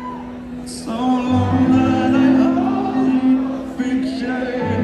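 Live band music recorded from the audience in a large hall: a male voice singing held, drawn-out lines over sustained instrumental chords.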